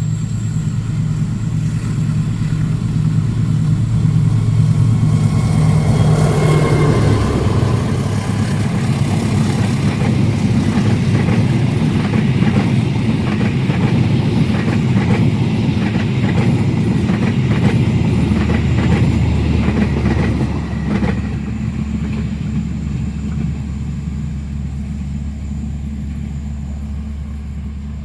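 Train passing close at speed. A diesel locomotive's engine drone drops in pitch as it goes by, then a long string of cars follows with wheels clacking rhythmically over rail joints. The sound fades in the last few seconds.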